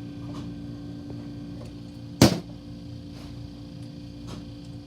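Hand tools being handled during a repair: one sharp knock about two seconds in and a few faint clicks, over a steady low hum.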